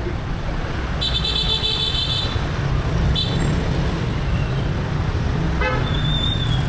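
Dense motorbike traffic: a steady low rumble of engines, with high-pitched horn beeps from about a second in, a short one near three seconds, and another near the end.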